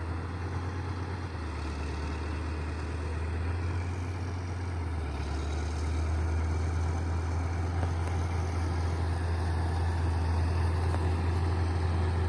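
Heavy diesel machinery engine running steadily, getting a little louder about five seconds in.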